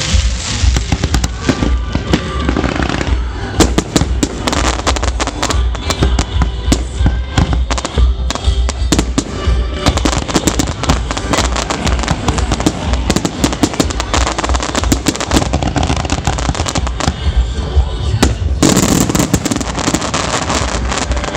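Aerial fireworks shells bursting in rapid succession, a dense string of bangs and crackles, with an especially loud volley near the end.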